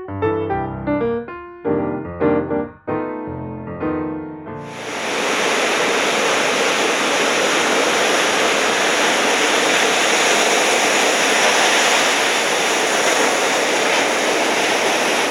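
Piano music for about the first four and a half seconds, then a steady, even rush of ocean surf that holds at one level until near the end.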